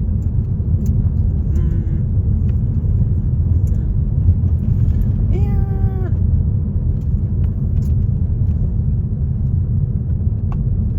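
Steady low rumble of a car driving, heard from inside the cabin. A short pitched voice-like sound comes about five seconds in, with a fainter one earlier.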